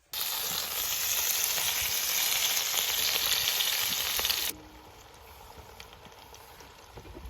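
A loud, steady hiss that cuts off abruptly after about four and a half seconds, followed by a much fainter background noise.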